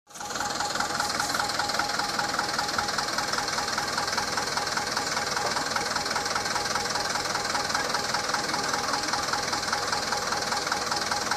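Mitsubishi Canter 4x4 truck's diesel engine running steadily with a fast, even beat.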